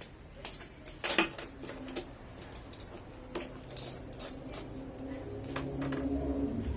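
Metal clinks and taps of hand tools and parts being handled, with a sharp clank about a second in. Near the end a low engine hum comes in and grows louder.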